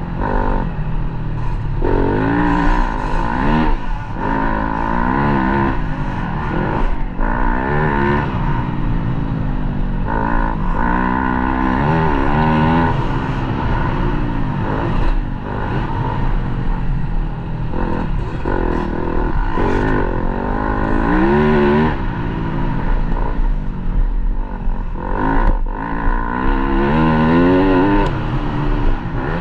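Dirt bike engine running hard, its pitch rising and falling again and again as the throttle is opened and shut, with a few brief drops in level.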